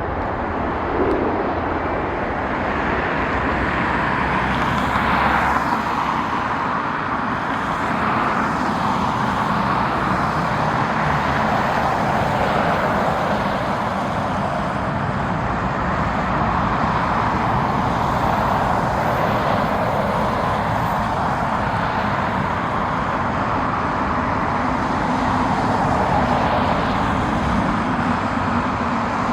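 Steady rushing engine noise, swelling slightly now and then without a clear rise or fall.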